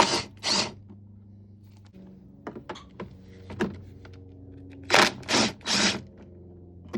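Socket ratchet clicking as a 10 mm bolt is loosened: three quick back-swings at the start, a few faint clicks and taps, then three more back-swings about five seconds in, over a steady low hum.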